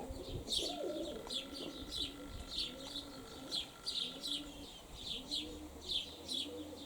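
Domestic pigeons cooing in low, wavering phrases, with short high chirps repeating about twice a second over them.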